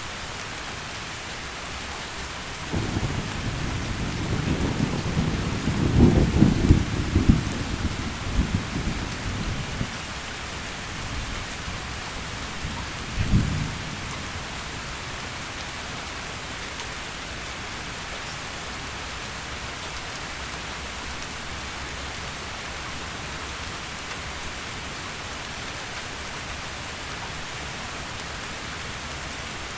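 Steady heavy rain with a roll of thunder: a low rumble builds about three seconds in, peaks a few seconds later and fades away, followed by a short, sharper rumble near the middle.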